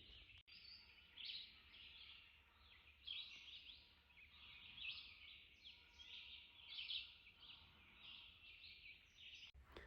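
Faint chorus of songbirds, many short chirps and song phrases overlapping one after another.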